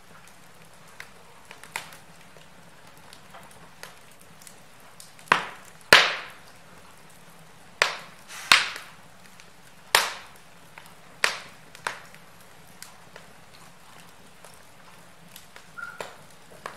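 Wood fire in a fireplace crackling, with irregular sharp pops over a low steady hiss. Several loud snaps come in the middle, and a short faint whistle sounds near the end.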